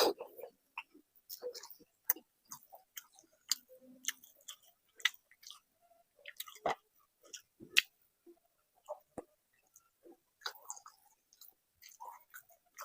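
Close-miked chewing of a meal of rice and curry: irregular wet mouth clicks and smacks, several a second, with short pauses.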